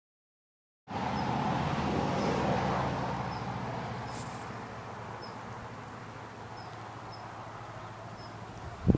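A motor vehicle's engine and tyre noise on the highway, starting abruptly about a second in and fading away over the following seconds as it passes and recedes. Faint short high chirps repeat a little more than once a second throughout.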